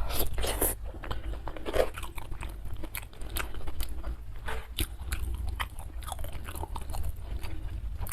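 Close-miked chewing and crunching of crisp food, many irregular sharp crunches in quick succession. This is typical of eating crunchy fried catfish.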